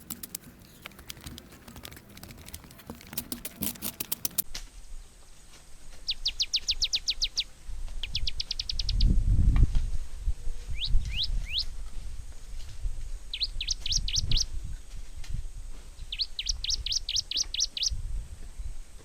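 A small songbird singing five short phrases of rapid trills, each a quick run of falling whistled notes, with some low rumble under them around the middle. Before the song starts, a fast dry clicking or tapping runs for the first few seconds and stops abruptly.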